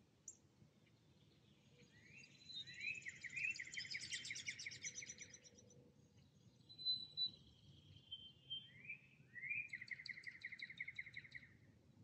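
Songbirds singing: two rapid trilled songs, each lasting about three seconds and opening with quick rising notes, the first a couple of seconds in and the second near the end. A few clear, higher single notes sound between them.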